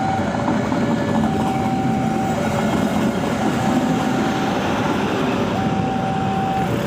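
Passenger train rolling past, a steady loud rumble of wheels on the rails. Over it a two-note electronic tone repeats, alternating a lower and a higher note each about a second long.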